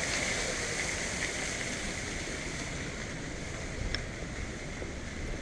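Wind buffeting a handheld action camera's microphone, a steady rushing noise, with a short tick about four seconds in.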